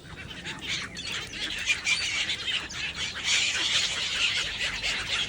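A flock of waterbirds calling together, a dense chatter of many overlapping squawks and chirps that grows louder about three seconds in.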